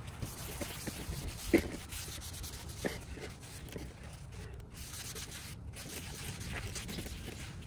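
Hand rubbing and scraping, with scattered light clicks and two sharper knocks about a second and a half and three seconds in, over a steady low hum.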